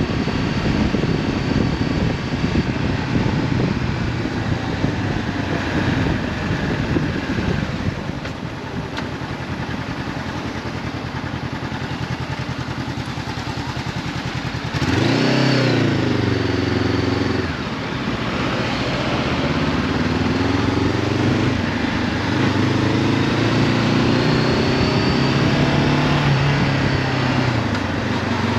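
Honda CB500F parallel-twin engine with an Akrapovic exhaust, under way with wind noise on the helmet microphone. About halfway through the engine revs up sharply under acceleration and falls away, then climbs again more slowly through the second half before dropping back near the end.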